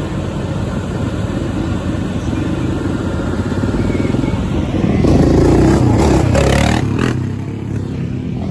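Low, steady rumble of car engines as cars roll past at a street car meet. About five seconds in, an engine revs louder for roughly two seconds before easing off.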